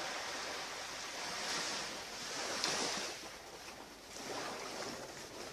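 Sea waves breaking and washing up a beach, swelling three times and fading near the end.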